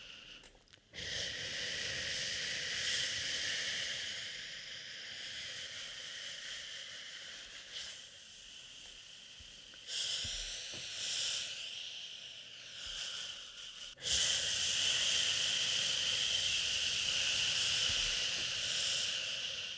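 A drawn-out "shhhh" shushing over steady white noise, meant to soothe a crying baby. It drops away briefly at the start, then resumes, getting louder in sudden steps near the middle and again about two-thirds of the way through.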